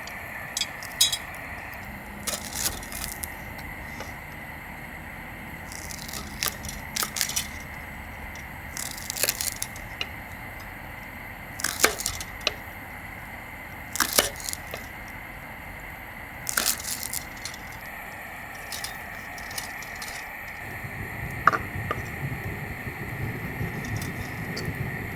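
Wood campfire crackling, with irregular sharp pops spaced a second or two apart over a steady high hum. A low rumble builds about twenty seconds in.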